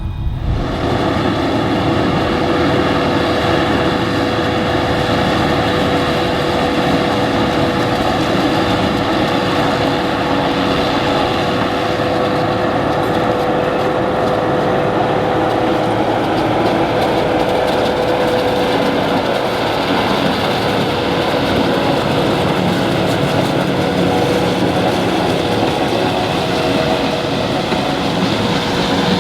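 Kubota M7-172 tractor and a New Holland FP230 pull-type forage harvester running steadily in the corn, a constant machine noise with a steady whine running through it.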